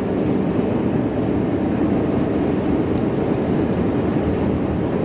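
Strong easterly wind buffeting the microphone: a steady, rumbling wind noise.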